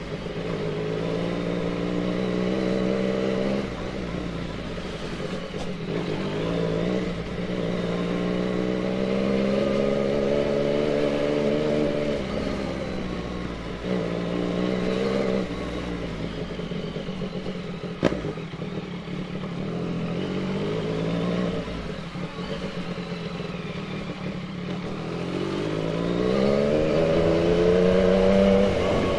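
Yamaha MT-09's inline three-cylinder engine riding in traffic, revs rising and falling again and again as it pulls away and rolls off the throttle. There is one sharp click about 18 seconds in, and the revs climb steadily near the end.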